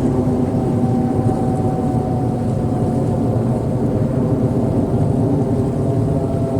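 Incoming high-tide waves washing against the shore: a loud, steady low rumble of surf with no break, a faint steady hum running over it.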